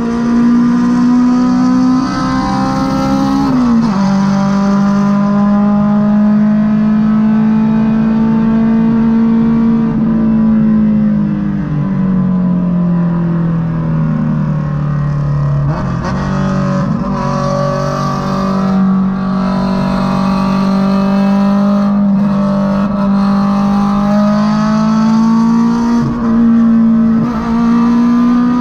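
Honda Civic EK4's naturally aspirated VTEC four-cylinder engine running at highway speed, heard from inside the car. Its note drops sharply about three and a half seconds in, sinks lower around the middle, then climbs slowly as the car speeds up again, with road noise underneath.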